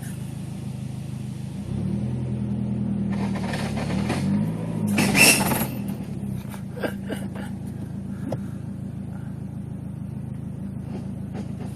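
Dodge SRT-4's turbocharged 2.4-litre four-cylinder running at a steady idle; about two seconds in its note changes and grows louder, and around five seconds a loud harsh noise breaks out before it settles back to a steady idle with a few light clicks. The noise comes from a failing T850 manual transmission, which the owner suspects has loose synchros, worn shift forks, or a clutch release fork and throwout bearing problem.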